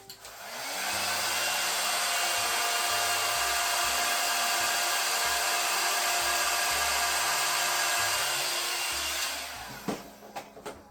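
Handheld electric hot-air blower running steadily for about nine seconds: it spins up just after the start, holds a steady rush of air with a faint motor whine, and switches off about a second before the end.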